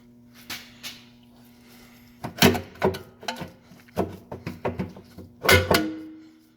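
Metal clanks and knocks as an oil pan is wrestled out from under a Hemi V8 and bumps against the frame and lines: two light taps, then from about two seconds in a run of sharp knocks, the loudest near the middle and near the end, the last one ringing briefly. A faint steady hum sits beneath.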